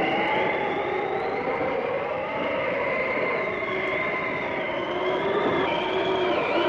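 Howling blizzard wind: a steady rush with several whistling tones that waver and glide slowly up and down.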